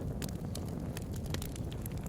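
Wood bonfire crackling: scattered sharp pops and snaps over a steady low rumble.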